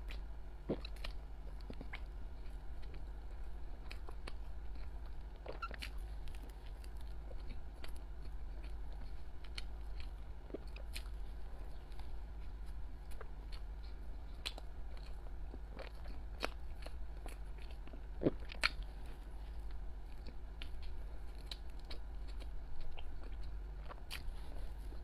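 Close-miked chewing of soft, sticky pastry: scattered wet mouth clicks and smacks, with a steady low hum beneath.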